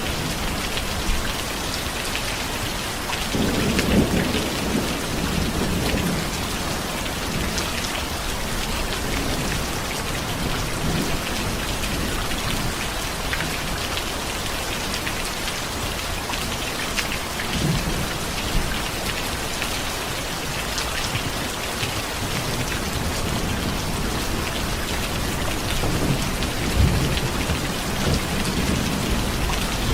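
Steady heavy rain falling, with low rolls of thunder rumbling about four seconds in and again near the end.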